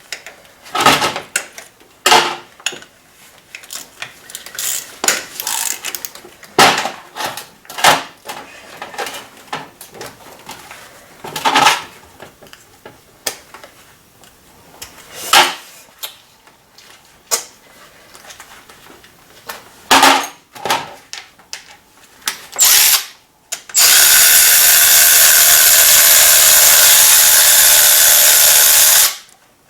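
Metal hand tools clinking and knocking in short, scattered clicks while spark plugs are being removed from the engine. About 24 s in, a loud steady rushing noise runs for about five seconds and then cuts off sharply.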